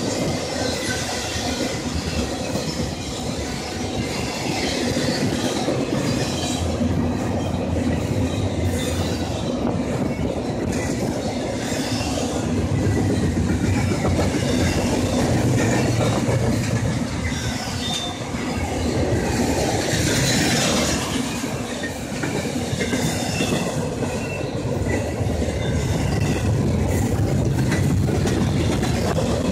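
Intermodal freight train's double-stack well cars and trailer flatcars rolling past close by: a steady rumble and clatter of steel wheels on rail.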